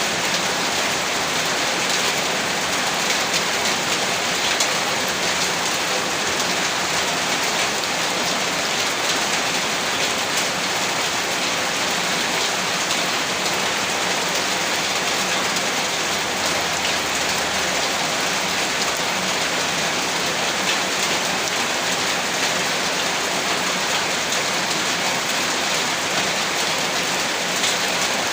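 Heavy rain falling steadily on a surface, a dense even hiss of countless drops with no let-up.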